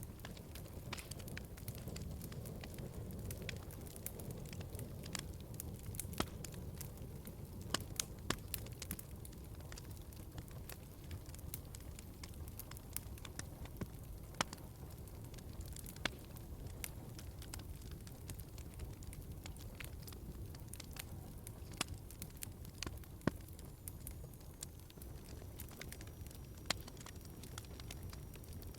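Wood fire in a fireplace crackling: a steady low rumble of burning logs with many irregular sharp pops and snaps.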